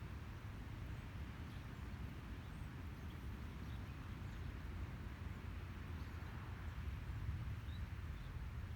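Steady outdoor ambience: a low rumble under a soft hiss, with a few faint, short high-pitched peeps.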